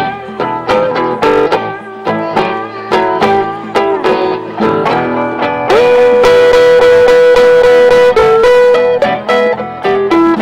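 Band music with a guitar solo: quick plucked notes, then about halfway through a note slid up and held for about two seconds, then more short notes.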